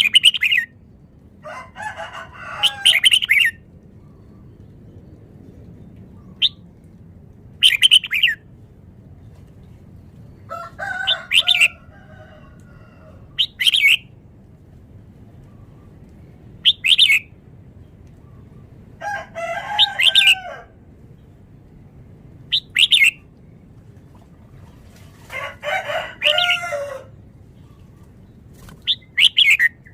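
Red-whiskered bulbul singing: short, bright whistled phrases repeated every two to three seconds, with a few longer, warbling phrases among them.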